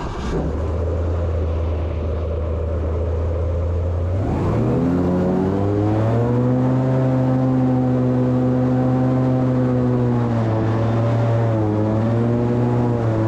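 Airboat's V8 engine and propeller fan: a low steady idle, then revving up about four seconds in and running hard as the boat pulls off the grass, the pitch dipping and wavering near the end.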